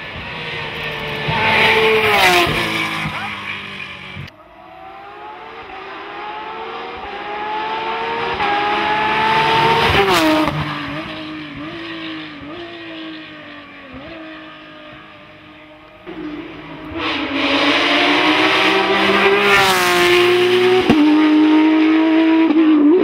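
Porsche racing cars with flat-six engines accelerating hard up a hill-climb course: engine pitch climbs through each gear and drops at every upshift. Three separate passes are heard, the quieter middle one pulling through several gears with the pitch rising.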